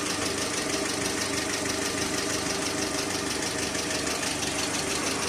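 Car engine idling with a fast, even clattering from its hydraulic valve lifters: the lifter knock persists after an engine flush, a sign of lifters clogged with dirt, sticking or short of oil.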